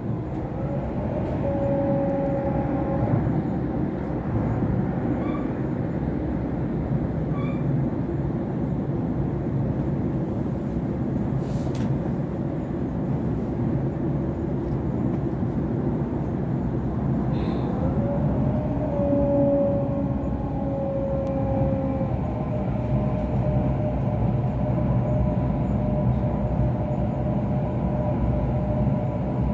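A Sydney Trains Waratah A set electric train running, heard from inside the carriage as a steady rumble. Thin high tones come and go above it, one sliding up in pitch and holding about two-thirds of the way through.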